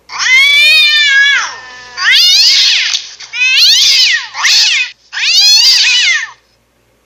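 A domestic cat meowing loudly five times in quick succession: long, drawn-out meows that fall in pitch at the end, the fourth one short.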